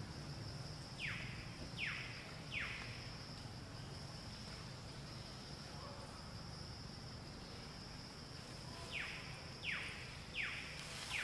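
Forest ambience: a steady high insect drone, with a bird calling three quick falling whistled notes about a second in and again the same three-note call near the end.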